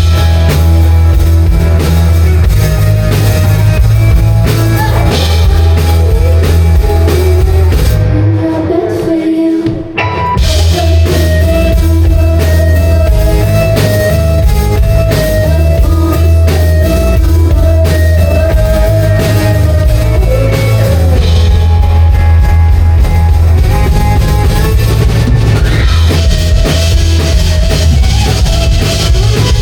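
Rock band playing live at full volume with drum kit, electric guitar and bass. About eight seconds in the drums and cymbals stop for a couple of seconds, then the whole band crashes back in.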